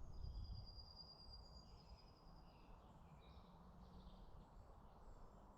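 Faint woodland birdsong: scattered short chirps and phrases, with one long, thin, high note held through the first half, over a quiet outdoor hush.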